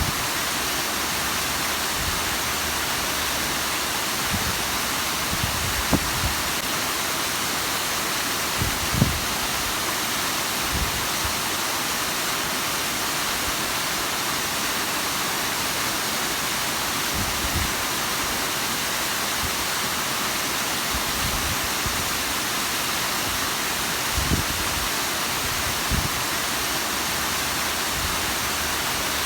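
Bigăr waterfall: water falling steadily into its pool, a dense, even rushing. A few brief low thumps stand out, the sharpest about nine seconds in.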